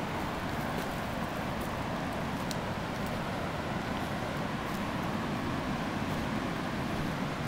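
Floodwater rushing loud and steady down a normally dry creek bed, swollen by heavy rain and pouring through the trees, with a few faint clicks over it.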